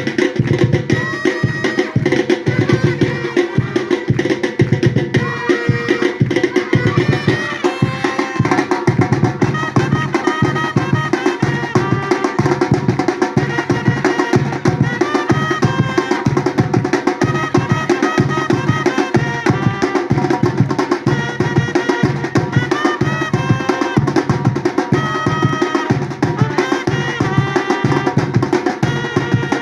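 Batucada percussion ensemble playing a steady, driving drum rhythm without a break.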